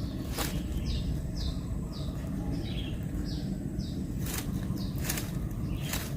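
A bird's short, high chirps, each falling in pitch, repeated about every half second over a steady low rumble, with a few sharp clicks.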